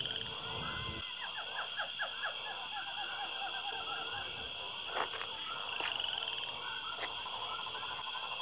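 Frogs calling in a chorus: runs of rapid, repeated short calls over a steady high-pitched drone, with a couple of sharp clicks near the middle.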